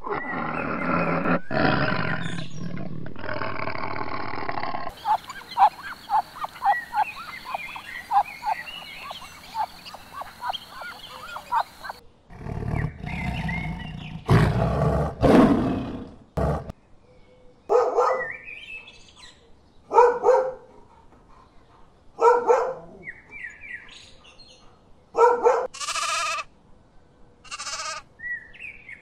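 A run of different farm animal calls with abrupt changes between them: a long pitched call at first, then a quick series of short repeated calls, a few loud harsh calls, and then short calls every two to three seconds.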